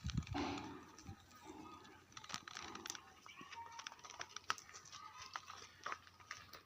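Faint outdoor ambience of scattered small bird calls, with frequent short clicks and rustles.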